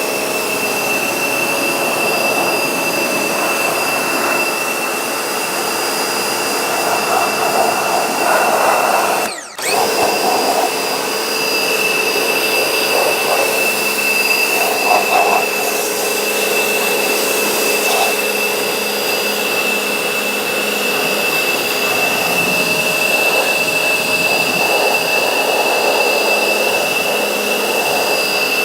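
Pressure washer running with a steady high whine over the hiss of its spray. It cuts out briefly about nine seconds in, then starts again.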